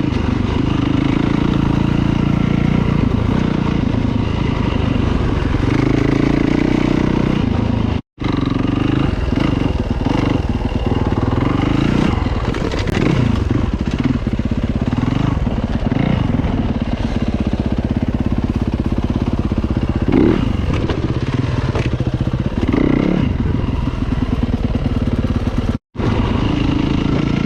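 Dirt bike engine running under load on a trail ride, its pitch rising and falling as the throttle is worked. The sound cuts out abruptly twice, for a split second each time.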